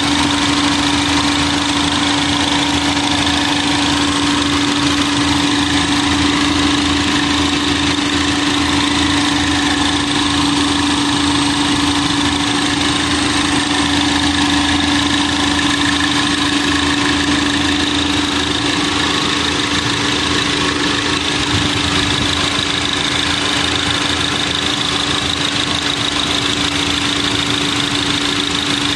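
Lincoln car engine idling steadily with a constant hum; the owner says it seems to misfire since a tune-up, though no fault code is stored.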